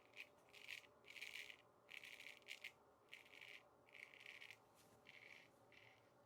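Faint, repeated short scraping strokes of a Weck Sextoblade straight razor cutting lathered stubble, about eight or nine strokes with short gaps between them.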